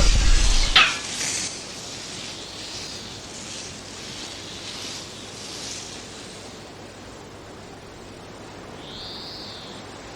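A loud noise ends in a sharp crash under a second in. Then comes soft, gusting blizzard wind, with one high rising-and-falling whistle near the end.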